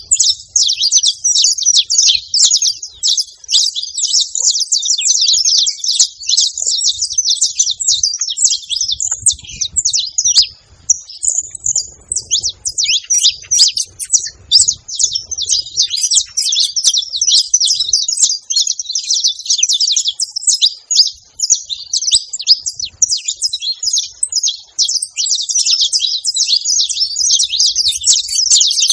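Saffron finch singing: a long, fast run of high chirping notes that goes on almost without break, with a short pause about ten seconds in.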